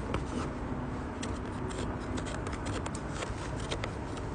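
Knife whittling a cherry-wood kuksa: a run of short scraping strokes and small clicks of the blade on the wood.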